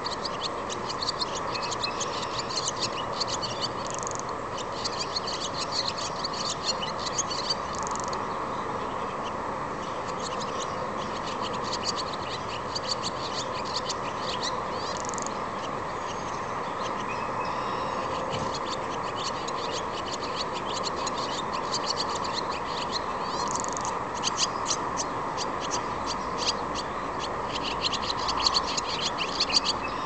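Small birds chirping in rapid runs, in bursts through the first several seconds and again over the last several seconds, over a steady background hum.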